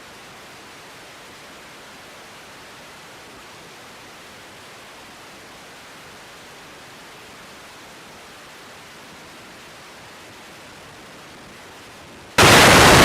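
Steady hiss of an air traffic control radio feed between transmissions. Near the end a sudden, much louder burst of static cuts in as a transmission opens.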